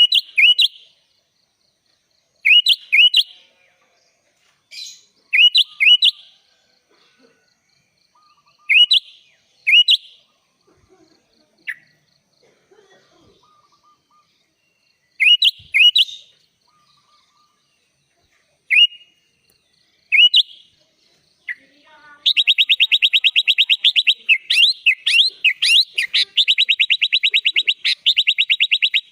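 Sooty-headed bulbul singing: short pairs of bright, upward-slurred whistled notes every couple of seconds. About 22 seconds in, this changes to a fast, unbroken trill of rapid notes.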